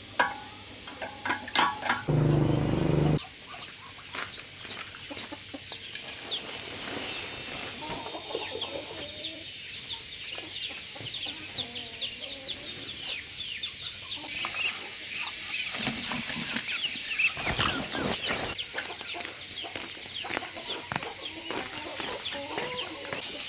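Chickens clucking and peeping, with many short, high, falling calls overlapping. A brief loud low rumble comes about two seconds in.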